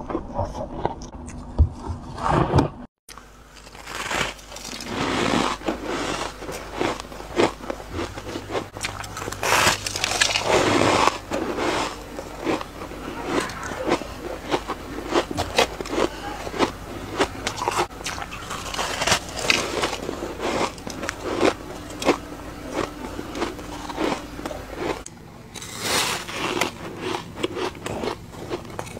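Close-up biting and chewing of crunchy freezer frost: a dense, irregular run of crunches, with a brief break about three seconds in.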